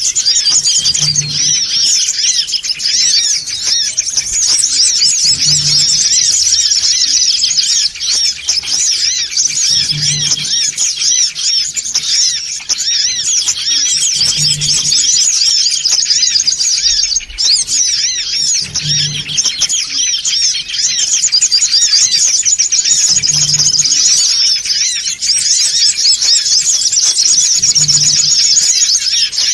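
Sunbird lure call: a dense, continuous stream of rapid, high-pitched chirps and twitters, the noisy 'ribut' calling used to draw in sunbirds. A faint low thump repeats about every four and a half seconds.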